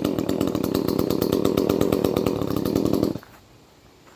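Chainsaw engine running steadily, then cutting off abruptly about three seconds in.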